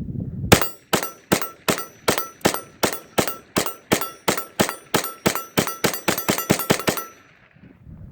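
Unsuppressed Kel-Tec CMR-30 .22 Magnum carbine fired semi-automatically in a rapid string of about two dozen shots, each with a short metallic ring. The shots come about three a second and speed up toward the end. The gun cycles round after round without a malfunction after its factory repair.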